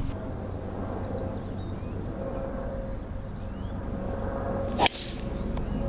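A golf driver striking the ball off the tee: one sharp crack near the end, over a steady low outdoor rumble with a few faint high chirps early on.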